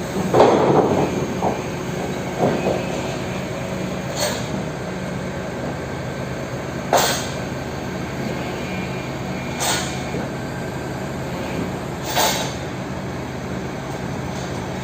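Heavy truck's diesel engine running steadily with a low, even hum. A louder squealing rattle comes about half a second in, and sharp knocks follow every few seconds, four more times.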